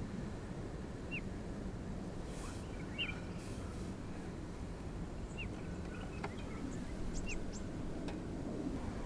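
Small birds giving short, high chirps, a few scattered calls and a quick run of three near the end, over a steady low background rumble.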